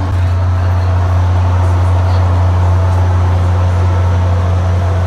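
A stopped SunRail diesel commuter train at the station, giving a loud, steady low engine drone with fainter steady tones above it.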